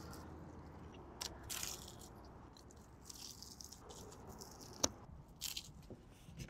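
Faint crunching of a person biting and chewing a crispy-breaded fried chicken drumstick, in a few short crackles.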